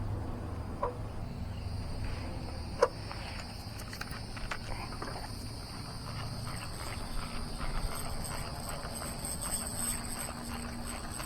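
Insects droning steadily with high, even tones over a low rumble. A single sharp tap comes about three seconds in.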